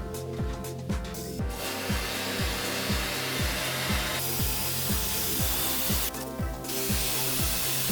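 Aerosol air-conditioner cleaning spray (with surfactant) hissing onto the heat exchanger fins in a long spray starting about 1.5 s in, with a short pause after about six seconds before it sprays again.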